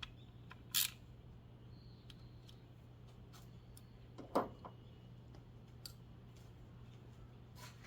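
Scattered small clicks and ticks over a steady low hum, with a short bright hissy burst about a second in and a duller knock just past halfway.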